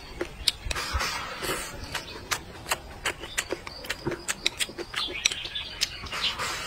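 Close-miked eating sounds: a man chewing a mouthful of rice and braised pork ribs, with many sharp, irregular wet mouth clicks and smacks.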